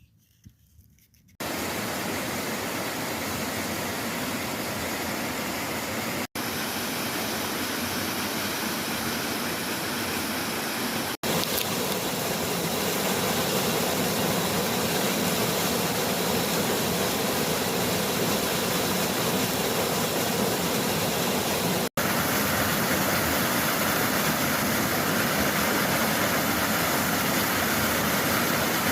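Waterfall rushing: a steady, loud roar of falling water that starts about a second and a half in, broken by three brief dropouts where clips are joined.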